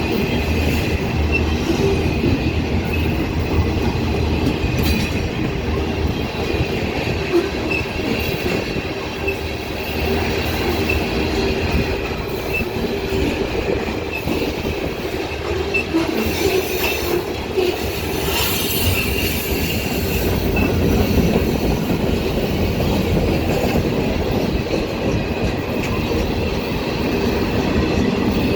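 Ferromex freight train cars rolling past on the rails, with a steady high wheel squeal over the continuous rumble of the wheels.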